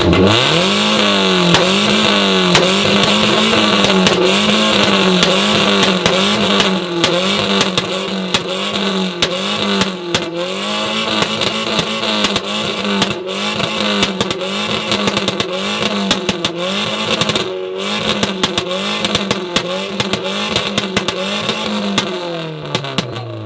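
Modified car engine held on a 2-step launch-control rev limiter. The revs bounce against the limiter about one and a half times a second, with a stream of sharp exhaust pops and bangs. The revs drop away near the end as the throttle is released.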